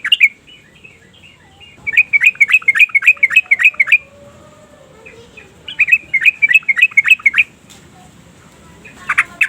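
Yellow-vented bulbul calling in fast chattering runs of repeated notes, about seven a second: two runs of about two seconds each with a pause between them, and two short notes near the end.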